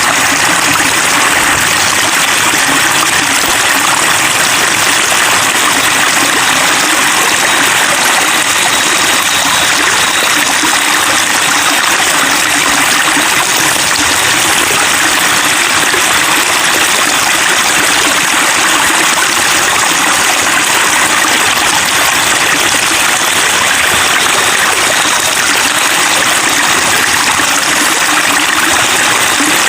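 Flowing water babbling steadily and evenly, with no change in strength.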